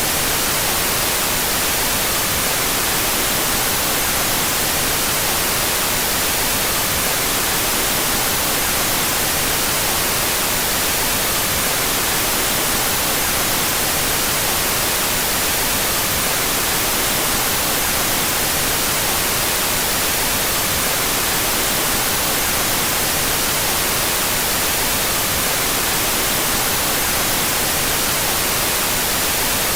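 Steady synthetic white noise, an even hiss with its energy weighted toward the treble, played with the stereo channels out of phase.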